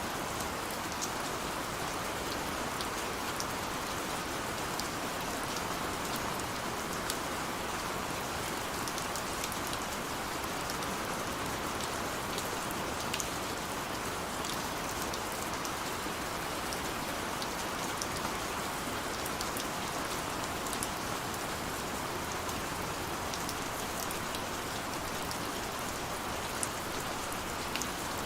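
Steady rain falling on hard surfaces, with scattered sharper drop taps over an even hiss.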